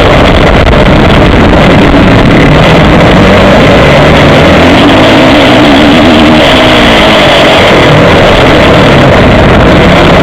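Motocross bike engine heard from an onboard camera, revs rising and falling as the rider throttles on and off, with one clear climb and drop in the middle. The sound is overloaded and distorted, pinned at full level.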